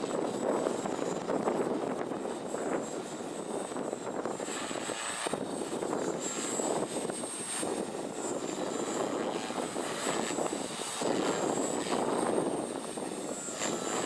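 Oxy3 Tareq Edition electric RC helicopter flying 3D aerobatics: a high motor whine that wavers in pitch over a rotor-blade rush that swells and fades repeatedly as it manoeuvres.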